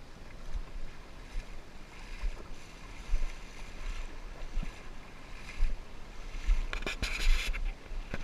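Creek water running as a steady hiss, with irregular low rumbling bumps on the camera microphone and a louder rush of water noise near the end.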